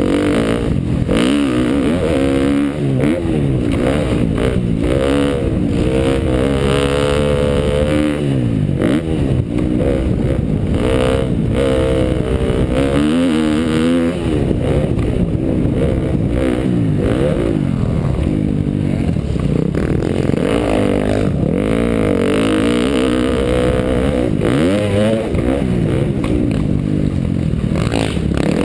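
KTM dirt bike engine revving up and dropping back again and again as it is ridden around a motocross track, the pitch rising and falling every second or two with the throttle.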